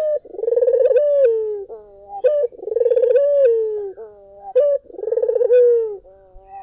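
Puter (ringneck dove) cooing repeatedly: three long rolling coos of about a second each, each followed by a short, higher note.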